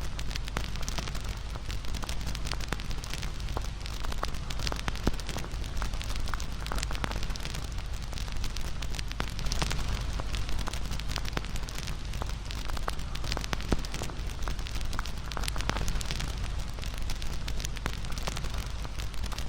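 Wood fire crackling, with many small irregular sharp pops over a steady low rumble.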